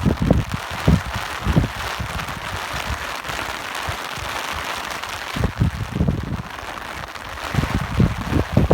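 Steady rain hissing, with irregular gusts of wind rumbling on the microphone; the gusts ease off in the middle and pick up again about five and a half seconds in, strongest near the end.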